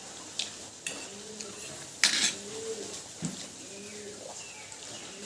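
A dove cooing in a repeated series of low, rising-and-falling calls. There are a few soft clicks, and a sharp clatter about two seconds in is the loudest sound.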